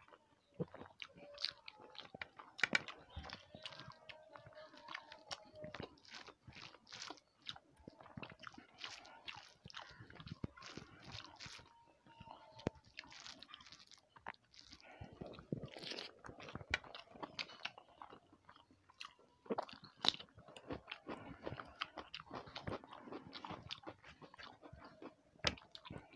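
Close-up eating sounds of a person chewing a mouthful of rice and fish curry eaten by hand: irregular wet chewing, lip smacks and crunches.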